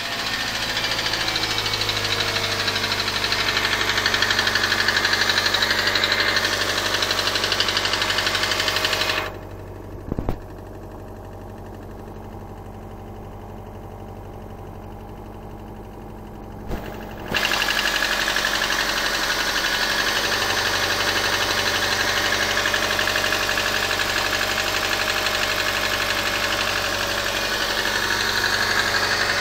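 Subaru EJ202 flat-four engine running with a knock, which the owner traces to cylinder number four. For about eight seconds in the middle the sound turns much quieter and muffled, opening and closing with a short thump.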